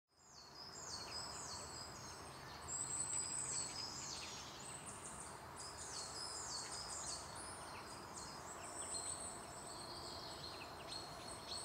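Faint birdsong: many short, high chirps that fall quickly in pitch, overlapping one another over a steady outdoor background hiss, fading in at the start.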